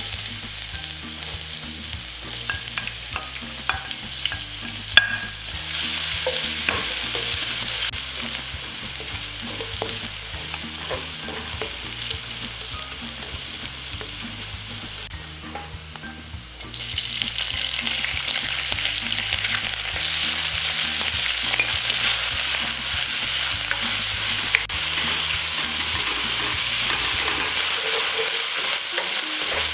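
Food sizzling as it fries in a hot pan while being stirred, with occasional clicks and scrapes of a utensil against the pan. The sizzle grows louder and fuller about seventeen seconds in.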